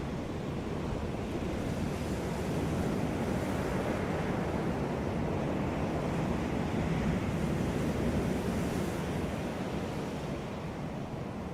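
Sea waves washing onto a beach, a steady rushing surf that swells gently and eases off again toward the end.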